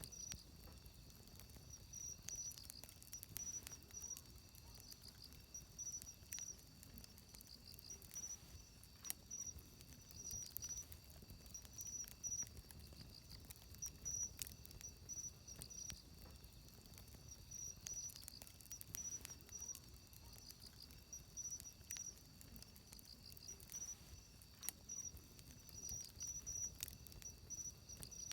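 Wood fire crackling with scattered sharp pops, while insects chirp in a high, pulsing pitch in repeated bursts throughout.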